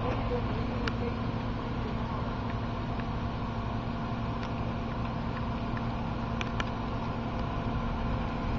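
Car engine idling steadily, heard inside the cabin, with scattered faint ticks of the first raindrops hitting the car.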